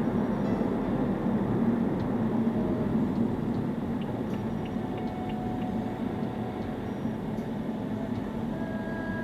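Steady low rumble of a car's road and engine noise inside the cabin, picked up by a dashcam microphone.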